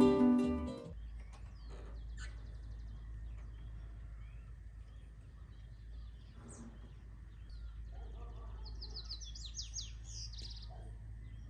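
A ukulele tune ends about a second in. After it, rural outdoor ambience: scattered bird chirps over a steady low rumble, and near the end a bird sings a quick run of high, rising chirps.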